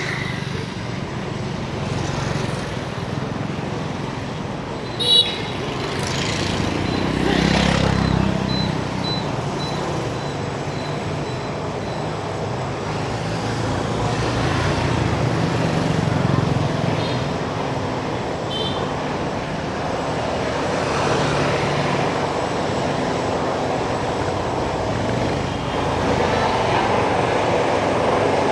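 Busy street traffic: motor vehicles running and passing steadily, with one swelling past about seven to eight seconds in. A sharp click with a brief ringing tone comes about five seconds in, and a fainter one near the nineteenth second.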